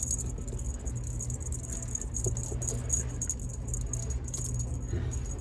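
Cat toy jingling and rattling in short, irregular shakes as a cat bats at it, over a low steady hum.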